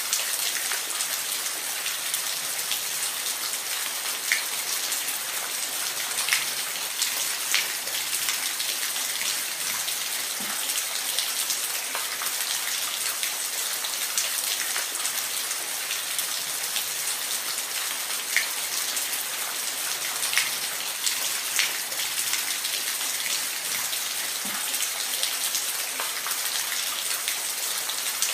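Steady rain: an even hiss of falling drops with scattered sharper drip ticks throughout.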